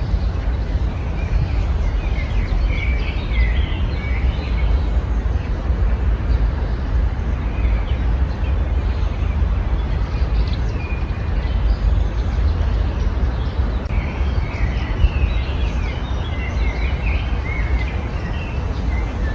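Several birds chirping in two busy clusters, a few seconds in and again near the end, over a steady low rumble that is the loudest part of the sound.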